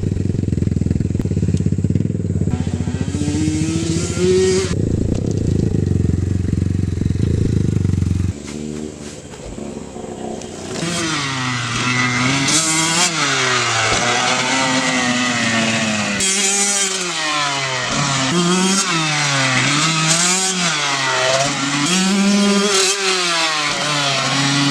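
Dirt bike engine being ridden. For the first eight seconds it is a steady low rumble with one rise in revs. After a short dip, the revs swing up and down about once a second as the throttle is worked on and off.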